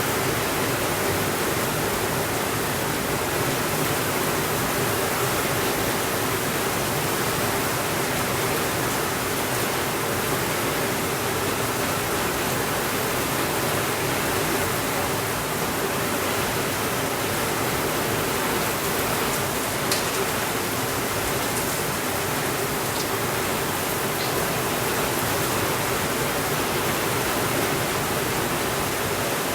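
Steady rainfall, an even, unchanging hiss, with a faint single click about two-thirds of the way through.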